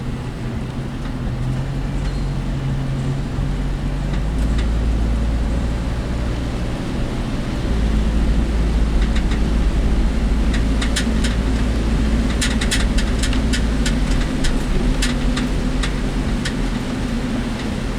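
Work vehicle's cab noise while driving: steady low engine and road rumble that gets louder about eight seconds in. Irregular sharp clicks and rattles from the vehicle through the second half.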